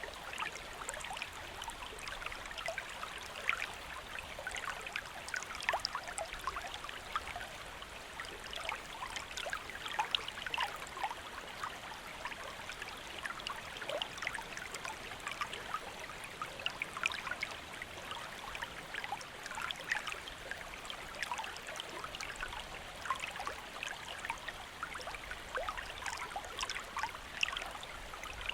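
Shallow stream flowing steadily over stones, a constant rush of water dotted with many small splashes and gurgles.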